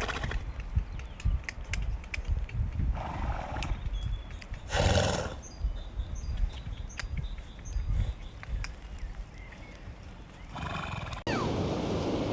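A horse calling in about four short bursts, with scattered sharp knocks between them like hoof steps. Near the end it gives way suddenly to a steadier hiss.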